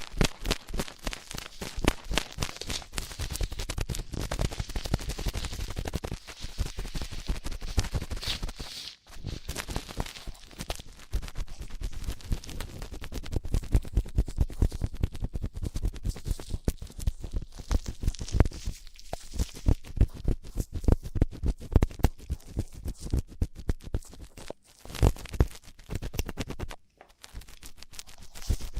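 Close, rapid scratching and rubbing of ear-cleaning tools on a binaural microphone's ear, a dense stream of tiny crackly strokes with a few brief pauses.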